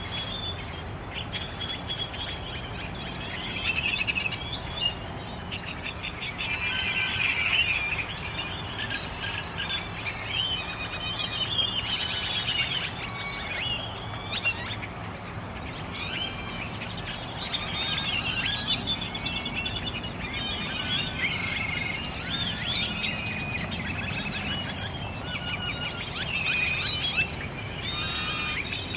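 A huge roosting flock of starlings calling in the trees at once: a dense, unbroken chorus of overlapping chirps, whistles and rising and falling squeals.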